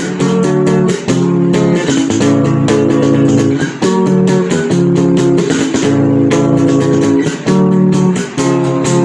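Instrumental guitar music, with strummed and picked chords changing about once a second.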